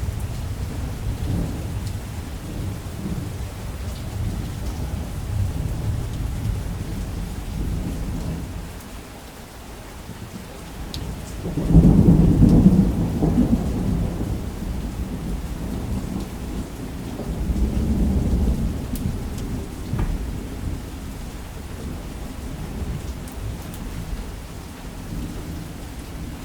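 Thunder over steady rainfall. A low rumble fades out about a third of the way in. About halfway through a loud thunderclap breaks out suddenly and rolls away, and a smaller rumble swells and fades a few seconds later.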